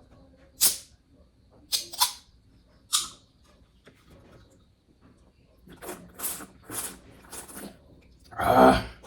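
A can of Red Bull being opened and drunk: a few short, sharp hissing clicks in the first three seconds, then a quick run of sips about twice a second. A loud, breathy exhale comes near the end.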